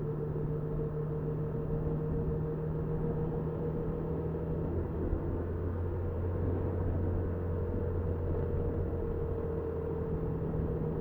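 Honda Super Cub 50's small four-stroke single-cylinder engine running with road noise, recorded by a dashcam on the bike; the engine note drops lower about halfway through and rises again near the end.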